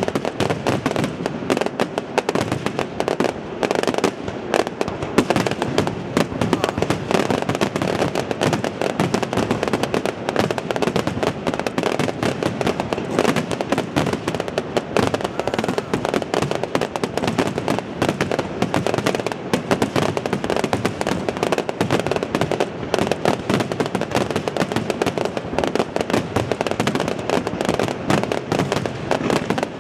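Fireworks finale: aerial shells bursting in a dense, continuous barrage, the bangs overlapping too fast to count.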